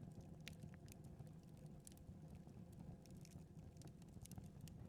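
Faint crackling of a wood fire in a fireplace: scattered small pops and snaps at an uneven pace over a low steady hum.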